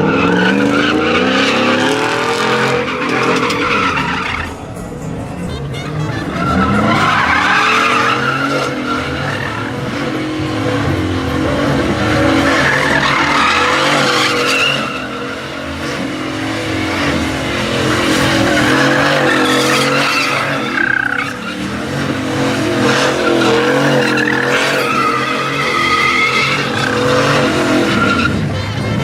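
Truck engine held at high revs while the tyres spin and squeal in a burnout, the revs dropping back and climbing again several times.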